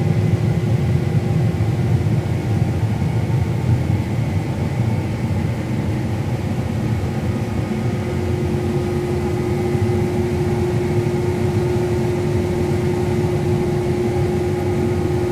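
Combine harvester running while harvesting corn: a steady low rumble with a constant hum that grows a little stronger in the second half.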